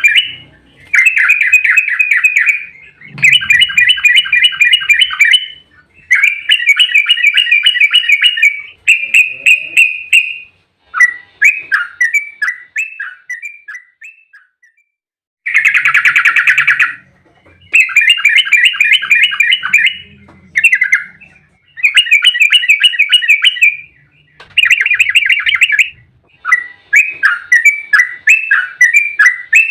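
Yellow-vented bulbul (trucukan) singing in its rapid, bubbly 'ropel' song, one loud burst of quick notes after another, each lasting a second or two with short pauses between.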